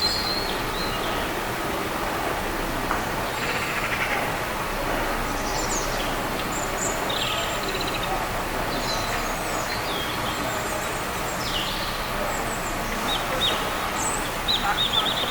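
Small garden birds giving short, scattered chirps and calls over a steady background noise, with a brief rapid trill of repeated notes near the end.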